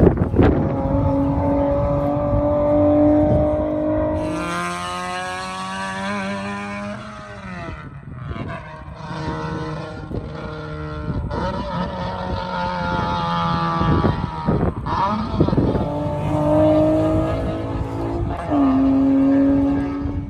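Car engine running hard at high revs: a loud, high, steady pitch held for seconds at a time, falling away about seven seconds in, then climbing and holding high again.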